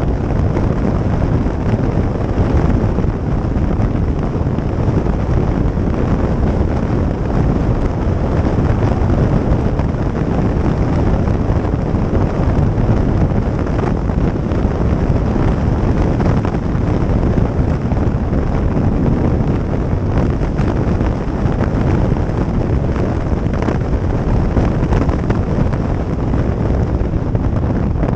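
Loud, steady wind rush over the microphone of a moving motorcycle, with the bike's running noise underneath.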